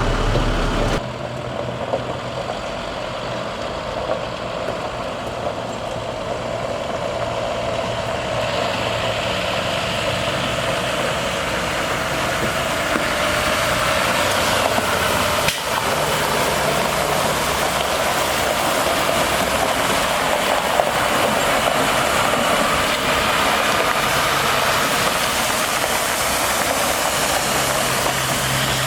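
International MaxxForce DT inline-six diesel engine running steadily as the water truck moves in first gear with its PTO water pump spraying, a broad hiss of spray filling in and growing stronger partway through. A single sharp click about halfway through.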